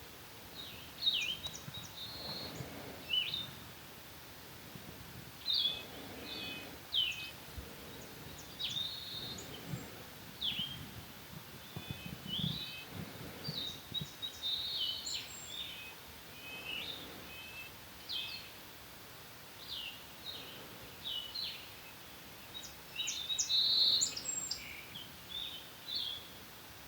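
Several songbirds singing in short, overlapping chirps and trilled phrases, one after another with little pause.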